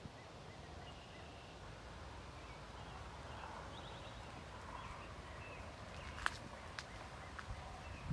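Faint outdoor ambience: scattered high bird chirps over a low rumble, with a few sharp clicks about six seconds in.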